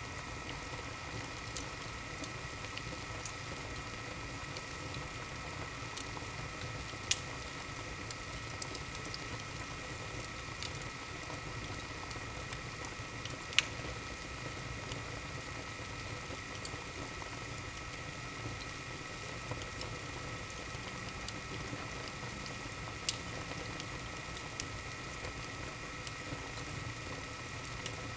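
Wood fire burning in a fireplace: a steady soft crackle and hiss with a scattering of sharp pops, the loudest about halfway through.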